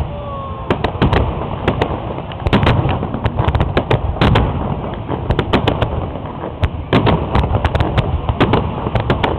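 Fireworks display: a dense, irregular run of loud bangs and crackling reports over a continuous low rumble.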